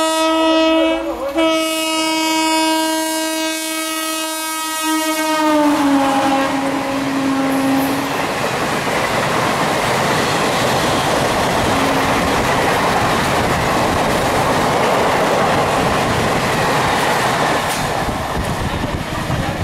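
Indian Railways locomotive horn sounding two long blasts, the second sliding down in pitch as the locomotive passes. The steady rush of the train going by follows.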